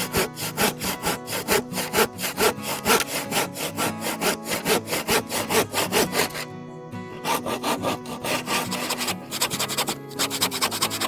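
Hand saw cutting through wood in quick back-and-forth strokes, about four a second, stopping briefly about six and a half seconds in before sawing on.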